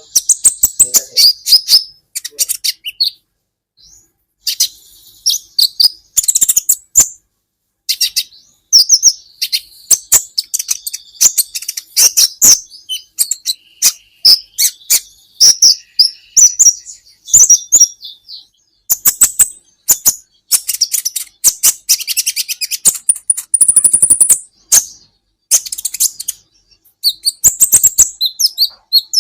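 Kolibri ninja sunbird singing: rapid runs of sharp, high chirps and twittering trills with short pauses, and a higher held trill about three-quarters of the way through.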